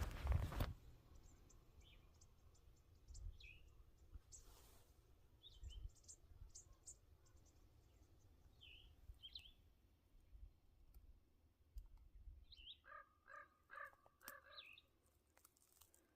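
Faint wild birds calling: scattered short, high chirps, then a quick run of about six harsher notes near the end. A brief scuffing noise right at the start is the loudest sound.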